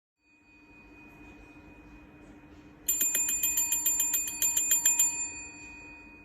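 A small metal bell rung rapidly, a quick trill of about nine strikes a second lasting about two seconds, over a faint steady hum.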